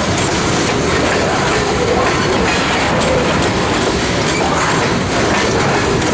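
Freight train cars rolling past, steel wheels clacking over the rail joints in a steady, loud stream.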